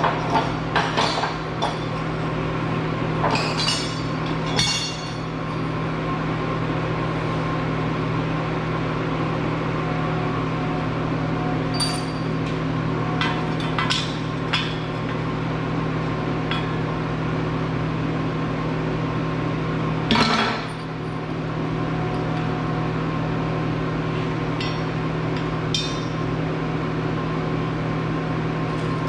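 Loose pieces of scrap metal clinking and clanking as they are picked through and handled, about a dozen scattered knocks, the loudest a single clank about twenty seconds in. A steady hum runs underneath.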